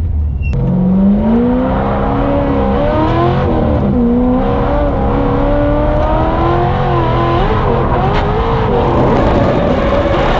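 Drift car engine revving hard through a drift. Its pitch climbs about a second in, then wavers up and down with the throttle over a steady roar of tire noise.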